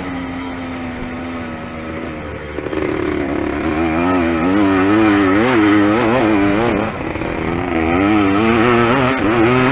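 Dirt bike engine racing: a steady note for the first couple of seconds, then louder, with the revs rising and falling quickly over and over, and a brief drop in the revs about seven seconds in.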